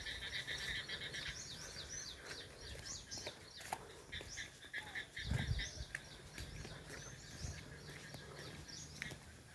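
Birds chirping in quick, irregular calls, over a steady high drone that fades after the first couple of seconds. A brief low thump about five seconds in.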